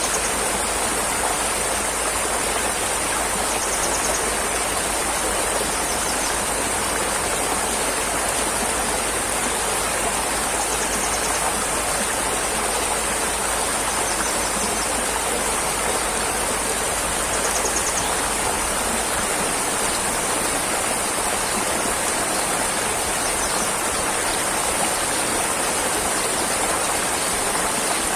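Steady rushing water, an even unbroken wash of sound.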